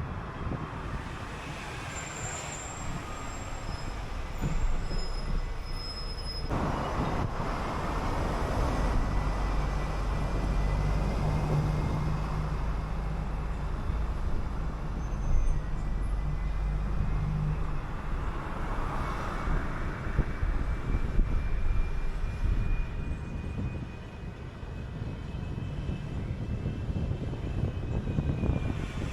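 City bus on the move: engine running with steady road and tyre rumble, the engine note strongest midway, and a faint high whine drifting slowly in pitch.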